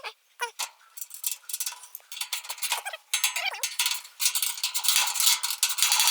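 Rapid metallic clinking and rattling, scattered at first and growing denser and steadier through the second half.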